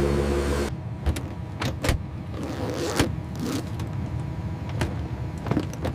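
A steady loud drone with a low hum, like engine noise, cuts off abruptly under a second in. It is followed by a quieter background broken by scattered short clicks and knocks.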